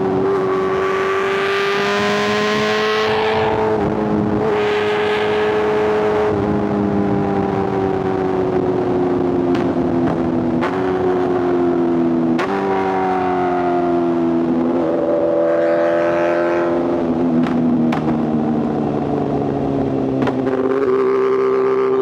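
Inline-four superbike engines, a BMW S1000RR and a Kawasaki ZX-10R, running under way at a fairly steady pitch. About halfway through the tone steps up suddenly twice, then slowly sinks.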